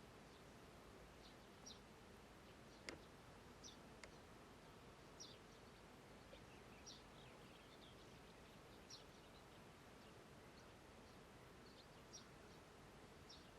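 Faint meadow ambience: a steady low hiss with short, high chirps scattered about once a second, and a single sharp click about three seconds in.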